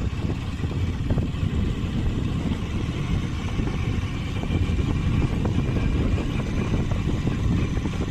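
Motorcycle engine running on the move, a steady low rumble with wind buffeting the microphone.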